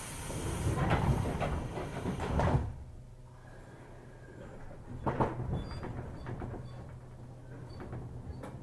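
JR 205-series commuter train standing at a station: its pneumatic passenger doors slide with a hiss and rumble and shut with a thud about two and a half seconds in. Then the stationary car's steady low equipment hum, with a few faint ticks and a knock.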